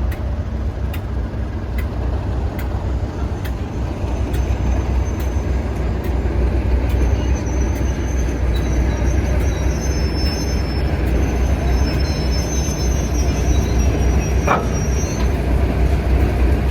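Passenger train running on the line: a steady low rumble with regular clicks of the wheels over rail joints, and a thin high wheel squeal through the middle, typical of flanges rubbing on a curve. The running grows louder a few seconds in.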